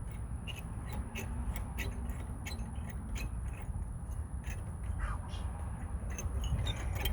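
Scattered light metal clicks and knocks as a rear disc-brake caliper, its bolts out, is worked loose and lifted off its bracket and pads, over a steady low rumble.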